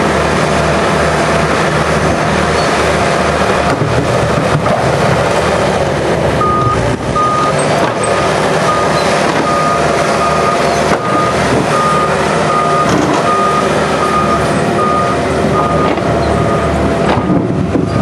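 Heavy machine's diesel engine running loudly, with a reversing alarm beeping about twice a second from about six seconds in until near the end.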